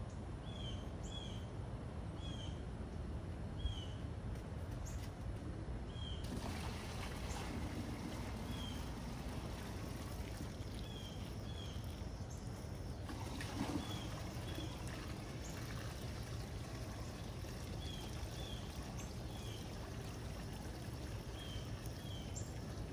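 Steady rain falling on a shallow muddy pond, drops pattering on the water. Short high chirps repeat every second or two, and there are two brief louder knocks.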